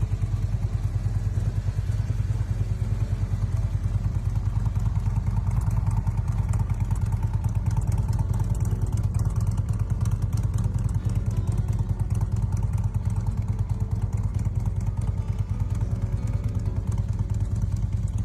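Harley-Davidson Tri-Glide's V-twin engine, fitted with an S&S cam, running steadily with a rapid, even pulse and no revving.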